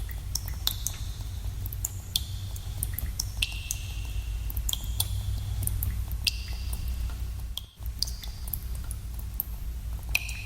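Water drops falling into cave pools, each a sharp plink with a brief ringing tone, many at irregular intervals over a steady low rumble. All sound drops out for a moment about three-quarters of the way through.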